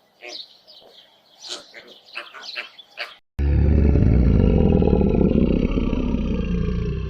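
Short, chirping bird calls, then from about three and a half seconds in an abrupt switch to a loud, long, low animal roar that slowly fades.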